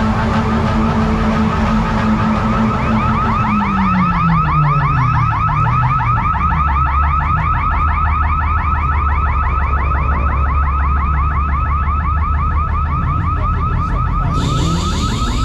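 Car alarm sounding a fast, evenly repeating warbling chirp. Underneath it a vehicle's low engine note drops in pitch a few seconds in, then settles into a steady low hum.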